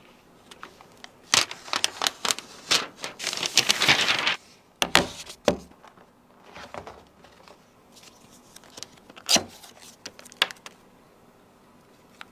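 Laptop packaging being handled and opened: crinkling and rustling of wrapping with sharp clicks and knocks. The sounds are busiest in the first half, with a few separate knocks later.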